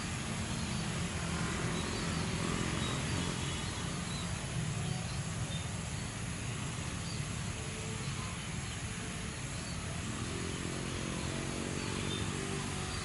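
Steady rumble of an airliner's jet engines, with faint bird chirps above it.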